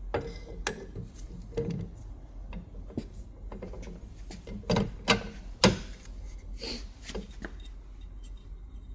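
Small metal parts and tools clinking and knocking irregularly on a workbench, with a cluster of the loudest knocks about five seconds in.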